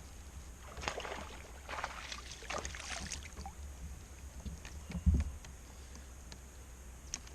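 Water splashing and sloshing at the side of a kayak for a couple of seconds, then a single dull thump on the kayak's hull about five seconds in.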